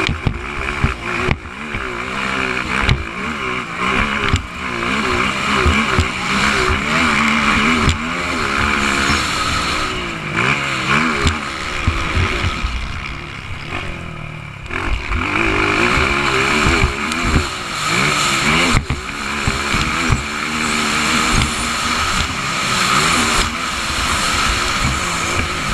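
Motocross motorcycle engines revving up and down again and again, with a steady hiss over them.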